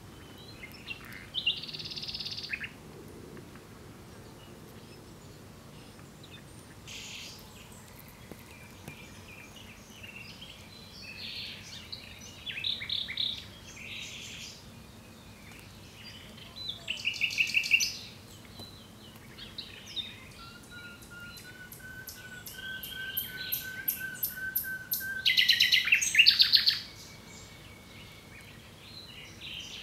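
Common nightingale singing in separate phrases with short pauses between them. In the second half a long run of quick repeated notes builds into the loudest phrase, near the end.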